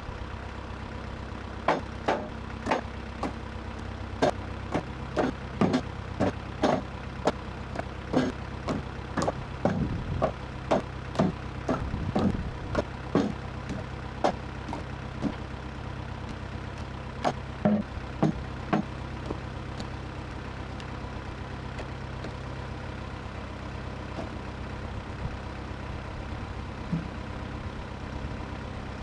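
An engine idling steadily under a long run of sharp knocks and clanks, about one or two a second, that die out about two-thirds of the way through.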